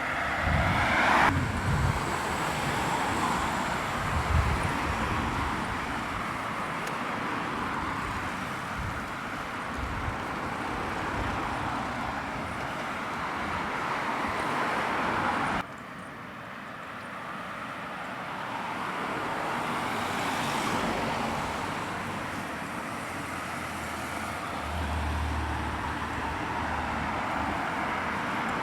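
Road traffic noise: vehicles passing, the noise swelling and fading over several seconds at a time, with low thumps on the microphone in the first few seconds. The level drops suddenly about halfway through, then builds again.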